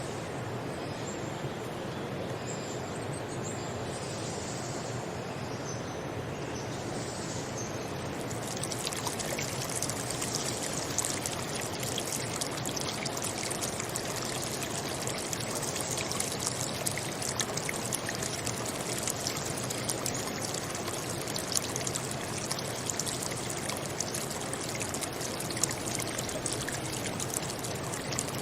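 Running water of a stream, splashing and trickling steadily. About eight seconds in, it becomes brighter and splashier.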